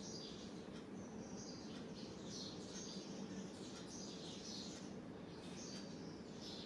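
Faint high bird chirps, short and falling, repeating about once a second over a low steady hum.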